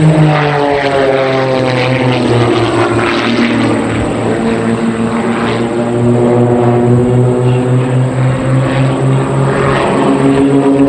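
Propeller engines of a pair of heavily modified Christen Eagle aerobatic biplanes, each well above 300 horsepower, flying a formation loop. The pitch drops just after the start as they pass, then holds a loud, steady drone that slowly bends up and down, rising again near the end.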